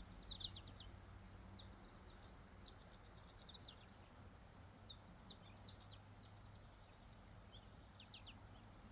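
Faint bird chirping: short high chirps scattered throughout, with quick runs of them about half a second in and again near the end, over a faint steady low hum.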